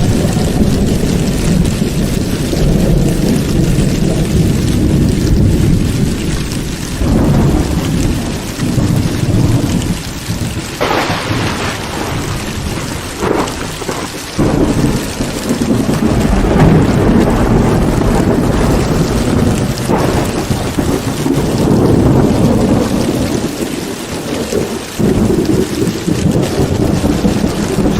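Heavy rain falling steadily through a thunderstorm, with loud rolling rumbles of thunder that swell and fade, and a sharper burst about eleven seconds in.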